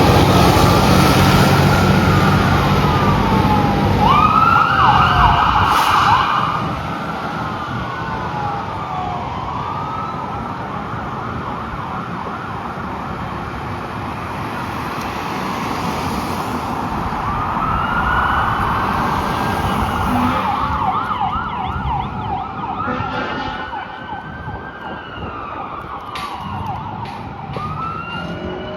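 Fire engine siren on an emergency response, alternating slow rising-and-falling wail sweeps with bursts of a fast yelp. A heavy engine rumble under it drops away about six seconds in, and the siren carries on quieter.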